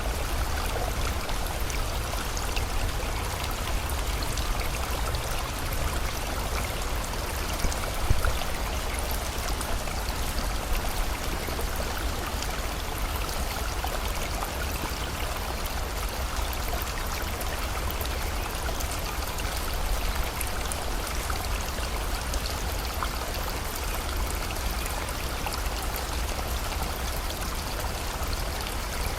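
Steady rush of a flowing river with falling rain, an even watery hiss over a low rumble, with one brief louder splash about eight seconds in.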